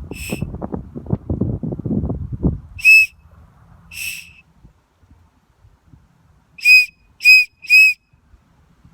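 A dolphin whistle blown in six short, shrill blasts, the last three in quick succession about half a second apart, as a call to attract dolphins. A low rumbling noise runs under the first couple of seconds.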